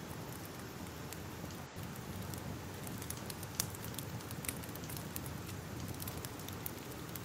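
Wood fire crackling: a steady low rumble with irregular small pops and snaps, and one sharper pop about three and a half seconds in.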